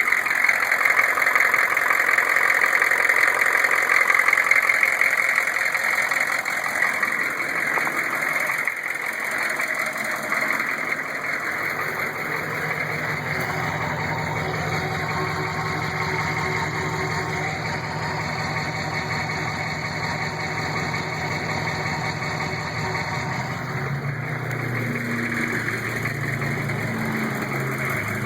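GM 6.5-litre V8 diesel engine idling with a knock that the owner can't trace; he puts its speed at about half crank speed and suspects the valve train, where oil flow to the rockers falls off toward the rear. About twelve seconds in the sound turns lower and steadier.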